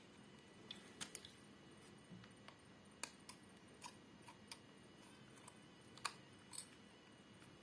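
Near silence broken by faint, irregular light clicks and ticks of small-parts handling: a wire end and the small terminal screws being worked at a ceiling fan's connection terminal. The sharpest click comes about six seconds in.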